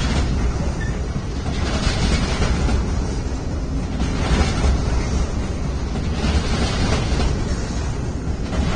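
Intermodal freight train rolling across a steel truss bridge: a steady rumble with a hissing swell about every two seconds as the wagons pass.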